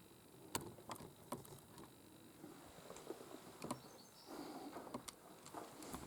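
Faint, scattered clicks and soft rustling, with a patch of rustling between about four and five and a half seconds in.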